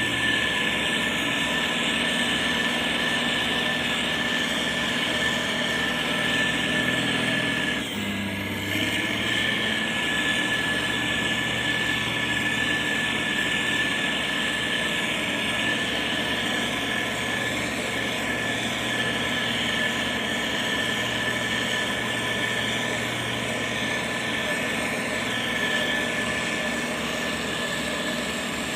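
Heavy construction machine's diesel engine running steadily, with a steady high-pitched whine over it; the sound breaks briefly about eight seconds in.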